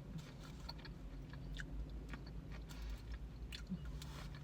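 Close-up chewing of fresh fruit, a string of small wet mouth clicks, over a steady low hum.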